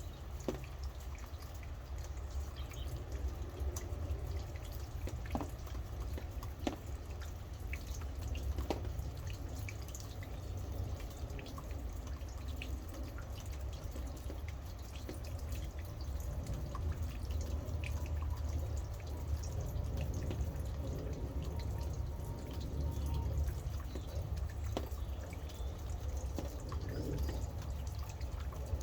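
Rain falling, with irregular drips and drop hits over a steady low rumble.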